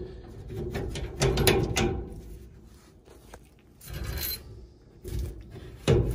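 Irregular clicks, scrapes and rubbing of hand tools and metal parts being handled during furnace repair work, with a short scraping sound about four seconds in and a sharp knock near the end.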